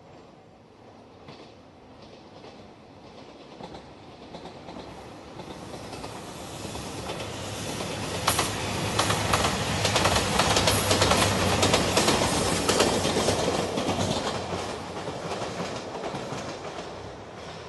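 JR Shikoku 2700 series diesel limited express train passing by. It grows louder as it approaches, goes by close with quick rhythmic wheel clicks over the rail joints and a low engine hum, then fades into the distance.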